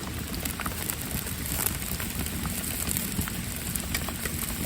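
Steady rain falling, with scattered drops ticking, mixed with the crackle of a freshly lit grill fire.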